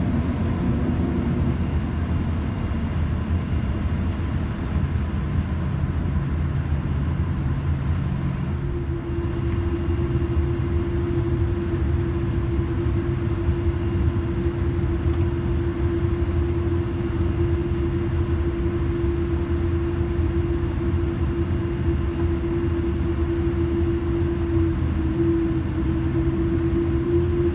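Steady low rumble inside a Boeing 787-9 airliner cabin, from the jet engines and cabin air systems. A steady hum joins in about nine seconds in and holds.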